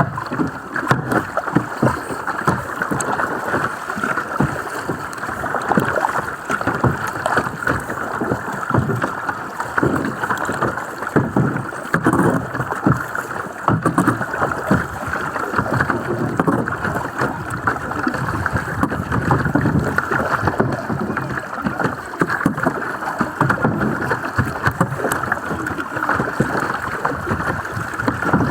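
Water splashing and sloshing around kayaks on open water, with irregular splashes throughout and wind buffeting the microphone.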